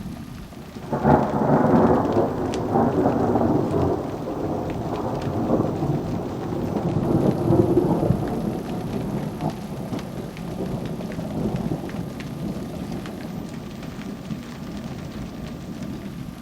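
A thunderclap breaks about a second in and rolls on as a long rumble, swelling again midway and slowly dying away, over steady falling rain.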